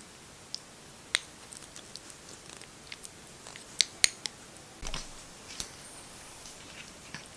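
Kitten suckling at its mother cat: scattered sharp little clicks and smacks, with a soft thump about five seconds in.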